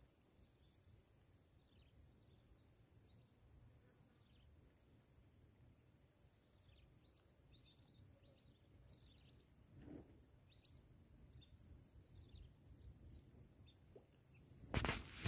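Quiet rural ambience, with a steady high-pitched hiss and scattered short bird chirps through the middle. A loud sudden thump comes near the end.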